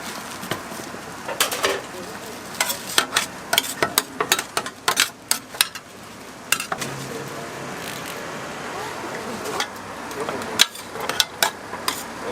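A utensil clicking rapidly against a bowl as food is stirred, in two runs of sharp clicks with a pause between, over a steady sizzle.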